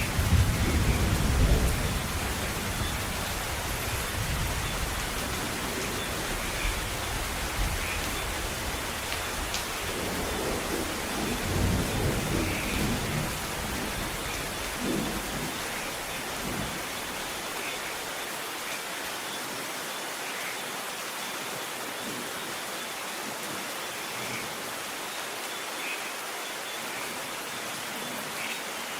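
Steady rain falling in a thunderstorm, with rolling thunder rumbling at the start and again in the middle before dying away, leaving only the hiss of the rain.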